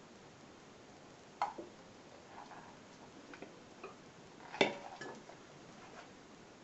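A few sharp clicks and knocks of metal tools and parts being handled and set down, the loudest about a second and a half in and again about four and a half seconds in.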